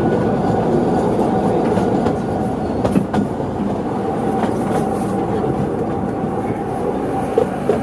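50 cm narrow-gauge train with open carriages running along the track: a steady rumble and rattle of wheels on the rails, with a sharp click about three seconds in.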